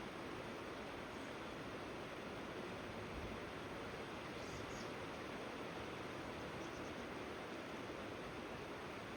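Steady rushing of flowing river water, even and unchanging, with a faint brief high chirp about halfway through and another a couple of seconds later.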